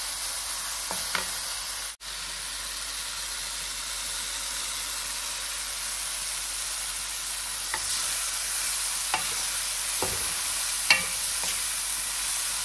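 Spinach and tomato frying in oil in a metal pot with a steady sizzle, with a few clicks and scrapes of the spatula against the pot as it is stirred. The sound briefly cuts out about two seconds in.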